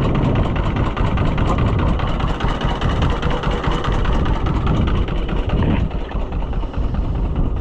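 An engine running steadily at idle. A higher-pitched part of the sound drops away a little before the end.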